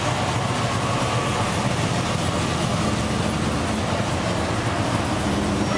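Engines of several cars running as they roll slowly past in a line, a steady low engine sound with no gaps.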